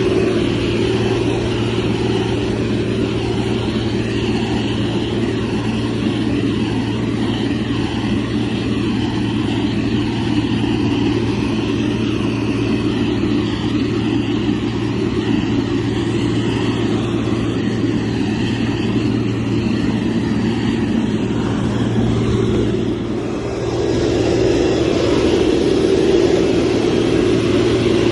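Diesel engine of a heavy road-construction machine running steadily under work, with a brief dip in level about three-quarters of the way through.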